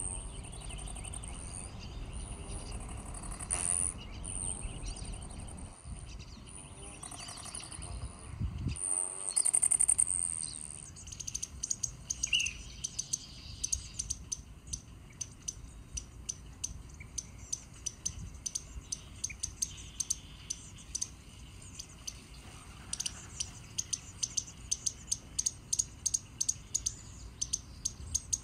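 Small birds calling. For about the first ten seconds there are high, drawn-out calls; after that comes a long run of short, sharp high chirps, about two a second.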